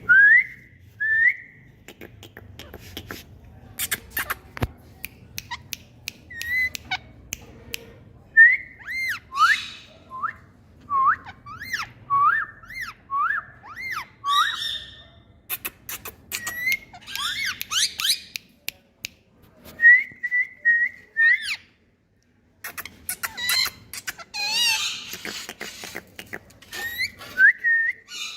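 Pet parrot whistling: runs of short whistled notes, many sliding quickly up or down, roughly one a second. These are broken by a few harsher, wavering squawks and some sharp clicks.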